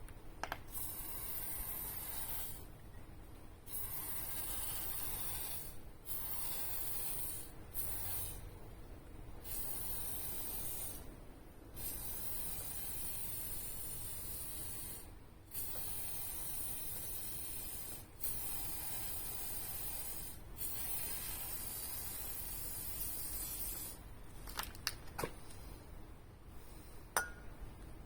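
Aerosol spray can hissing in a run of long bursts of one to three seconds each, about nine in all, with short pauses between. A few light clicks and taps come near the end.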